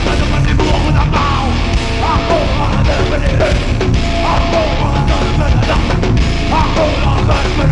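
A loud, heavy band playing live: distorted electric guitars, bass and drums in a dense, steady wall of sound.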